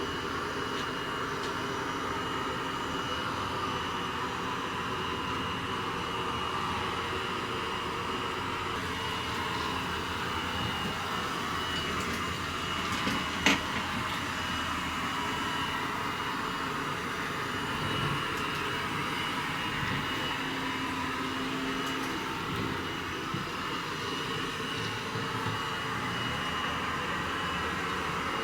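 Robot vacuum cleaner running: a steady whirring hiss with a thin high whine, and one sharp click about halfway through.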